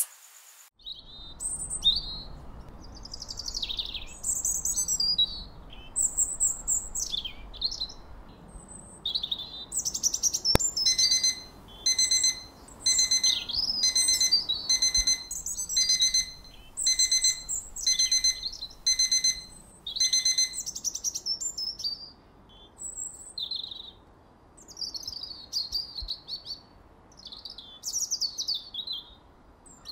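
Birds chirping and tweeting, with an electronic alarm beeping in quick repeated pulses from about ten seconds in until about twenty seconds in.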